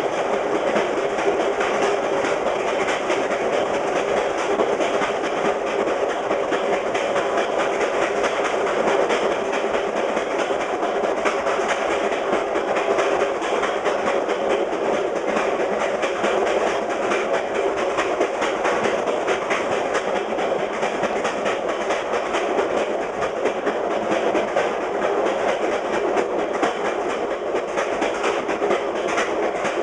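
VIA Rail passenger train running fast over jointed rail, heard from the rear of the last car: steady wheel-on-rail noise with a continuous clickety-clack as the wheels cross the rail joints.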